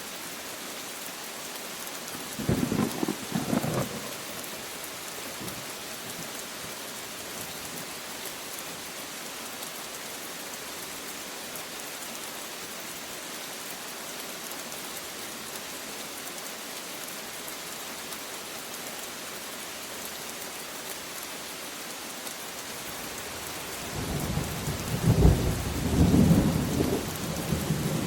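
Steady rain falling, with a short roll of thunder a few seconds in and a longer, louder rumble of thunder near the end.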